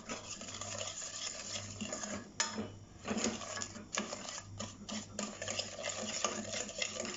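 A utensil stirring starch, flan powder and sugar into water in a saucepan: continuous scraping with light clinks against the pan as the powders are dissolved.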